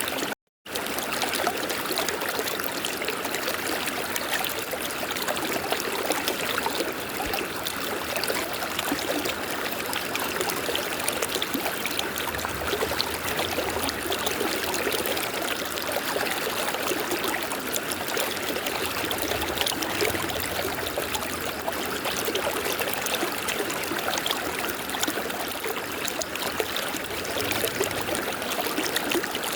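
River water flowing with a steady, continuous rush. About half a second in the sound drops out completely for a split second, then resumes.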